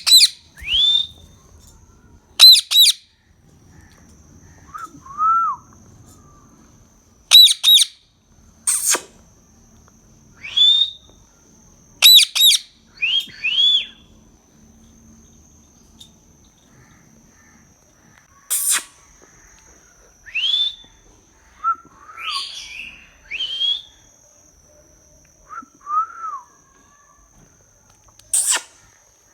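A parrot calling: short, loud, high squawks repeated every second or few, mixed with lower whistled notes that rise and then fall.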